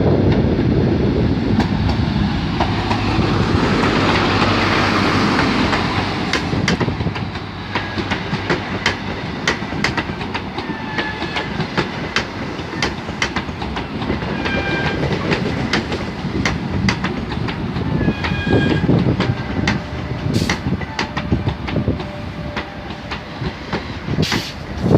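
Train moving through the station: a loud rush of noise for the first six seconds or so, then a steady run of wheel clicks over the rail joints, broken by several short high squeals.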